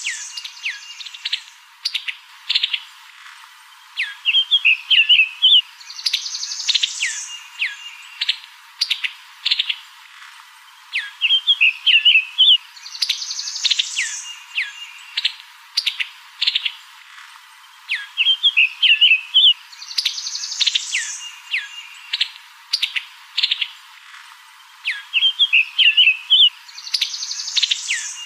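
Birds chirping: a short stretch of quick chirps, a rising sweep and falling chirps that repeats about every seven seconds, a looped birdsong track.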